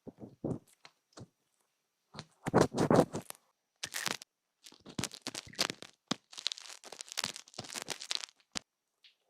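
Ear-cleaning ASMR sounds: scratching, rubbing and crackling strokes on a close microphone, in short irregular bursts with brief pauses, loudest a few seconds in.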